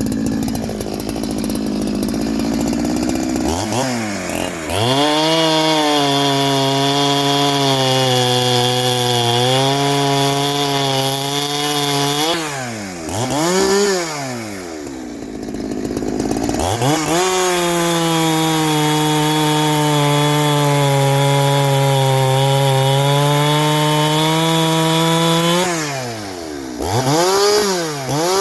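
Ported Farmertec G372XT two-stroke chainsaw held at full throttle through two long cuts in dry wood, its pitch sagging slightly under load. Between and after the cuts it drops back with a few quick throttle blips.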